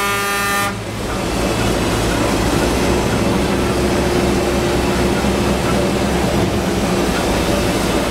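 Locomotive horn sounding and cutting off a little under a second in, followed by the steady rumble and clatter of a train running along the track.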